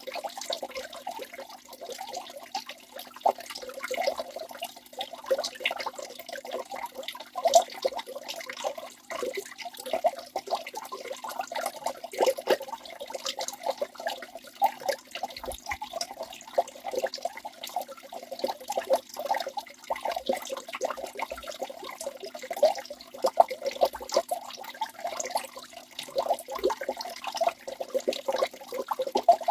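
Waterfall: falling water splashing continuously, a dense stream of small splashes and gurgles with no low rumble.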